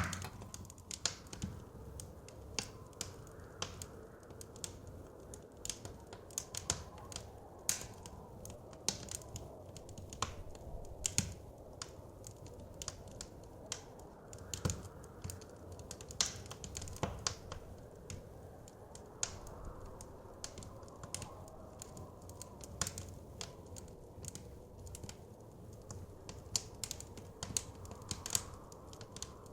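Wood fire crackling and popping in a fireplace: irregular sharp snaps several times a second over a soft low rumble of wind.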